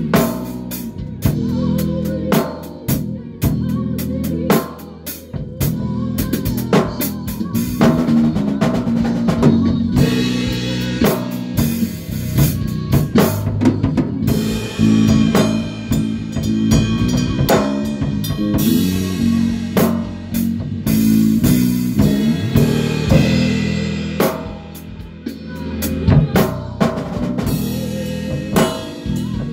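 A band playing live at a rehearsal: a drum kit with kick drum, snare and rimshots keeps a steady beat over bass and held pitched notes.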